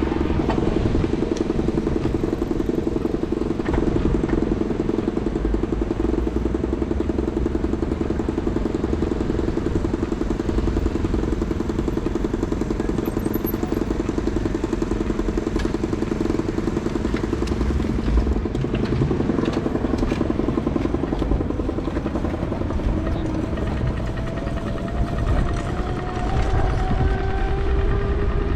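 Steady drone of motor traffic over a low rumble, with an engine note rising near the end as a vehicle speeds up.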